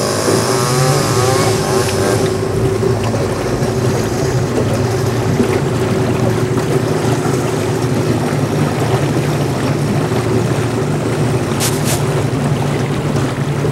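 Engine running steadily at an even speed, a constant low drone with a rushing noise over it, and a couple of brief clicks near the end.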